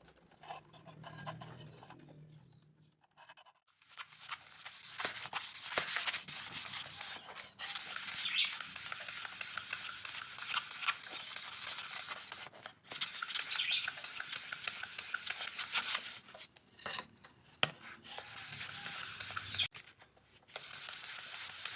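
Bamboo being worked by hand with steady scratchy rubbing strokes, starting about four seconds in and pausing briefly a few times; a few faint bird chirps sound now and then.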